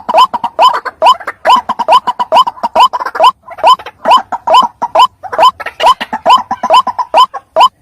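White-breasted waterhen (ruak-ruak) calling over and over, about three short rising calls a second, played as a bird-luring call.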